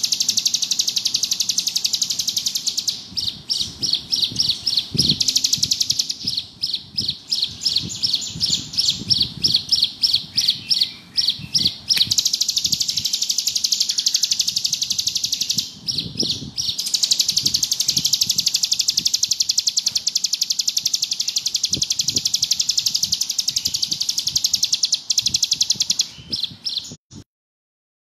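Ciblek gunung (a prinia) singing its 'ngebrem' song, a fast, unbroken high buzzing trill. For several seconds it breaks into separate rapid notes, a few a second, then runs on as a continuous trill and cuts off suddenly near the end.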